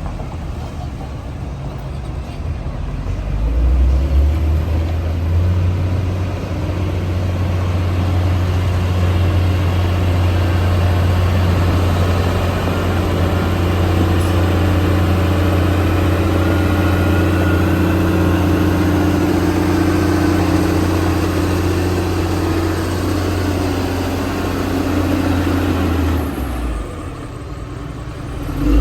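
Diesel engine of a heavy earthmoving machine running at work. It builds up about four seconds in, holds steady through most of the stretch, eases off briefly near the end and then picks up again.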